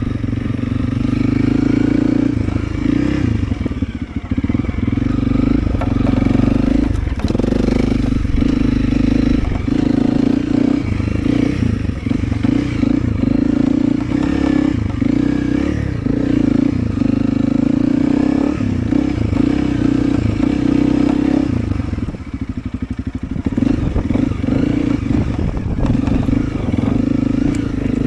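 Honda CRF300L single-cylinder motorcycle engine running while being ridden, its steady drone repeatedly easing off and picking back up with the throttle.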